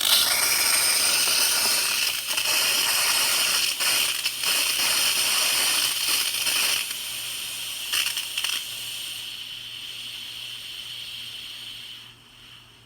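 Electrolux E9EC1-100S semi-automatic espresso machine running with a loud, steady hiss and a low hum. It weakens about seven seconds in, fades, and dies away near the end.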